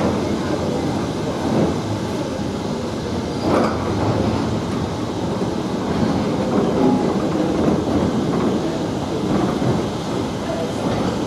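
Train running on the rails: a steady rumble with a few sharp knocks, one plain one about three and a half seconds in.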